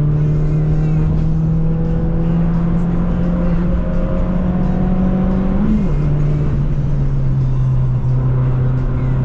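Citroën C2 VTS's 1.6-litre four-cylinder petrol engine pulling under load, its pitch rising slowly as the revs climb. About six seconds in, the revs drop sharply with a gear upshift, and it settles into a steady, lower note.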